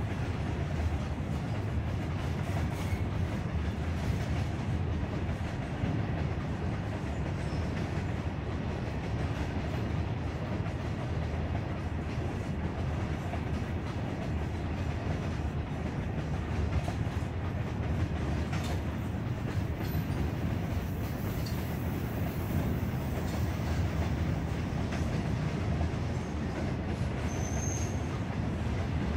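Goods train of open-top freight wagons rolling steadily past at close range: a continuous low rumble of steel wheels on the rails, with occasional faint clicks.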